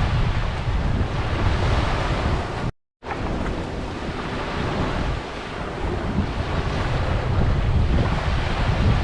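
Surf washing on a beach, with wind buffeting the microphone in a heavy low rumble. The sound drops out completely for about a quarter of a second near three seconds in, then resumes.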